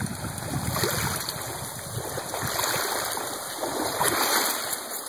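Rushing, splashing water noise, steady but uneven.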